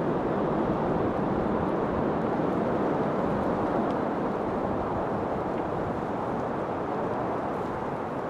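Steady rushing wind, easing a little toward the end.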